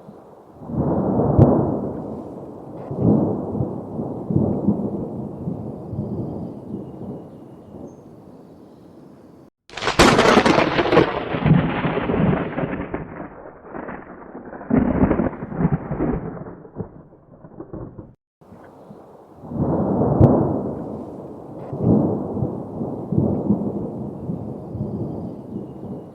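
Thunder rumbling in long rolling waves, with a sharp crack about ten seconds in before more rumbling. The sound cuts off abruptly twice, at about ten and eighteen seconds in, where the recording is spliced.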